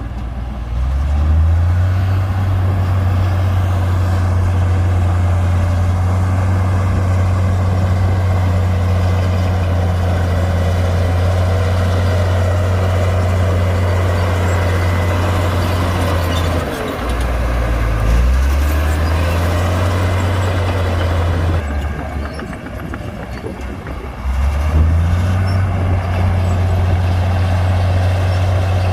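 Komatsu D58P bulldozer's diesel engine running hard under load. It revs up about a second in and holds steady, dips briefly and recovers, then drops to lower revs for a couple of seconds before revving back up near the end.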